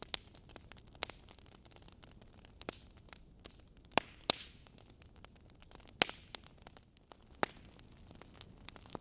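Wood fire crackling in a fireplace: sharp irregular pops and snaps from the burning logs over a soft steady hiss, with the loudest pops about four seconds in and again about six and seven seconds in.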